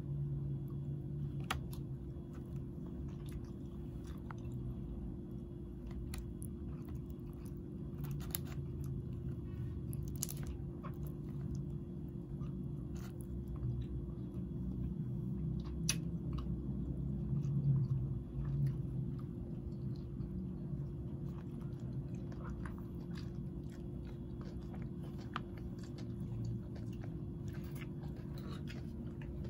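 Close-up chewing and biting of grilled skewered street food, with scattered short sharp clicks, over a steady low hum.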